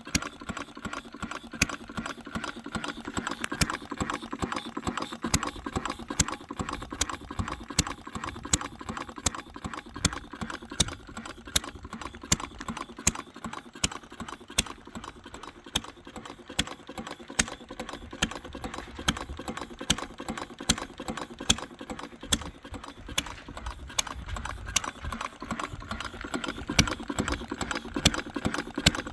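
1893 Henry Ford engine running steadily, a fast clatter of ticks with louder sharp beats every second or two. It is running again after five or six years of sitting unused.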